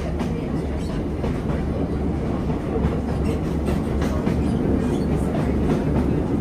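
Diesel passenger train running along the line, heard from inside the carriage: a steady low rumble with light, irregular clicking of the wheels on the track.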